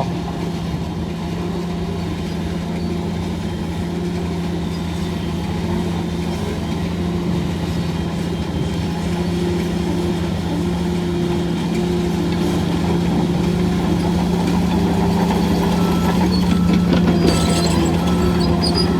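Heavy diesel engine of a Hyundai 25-ton earthmoving vehicle running steadily with a deep hum, slowly growing louder. A faint, broken high tone joins in near the end.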